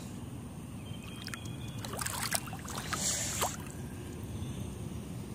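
A few light splashes of shallow floodwater, clustered about two to three and a half seconds in, over a steady low rumble.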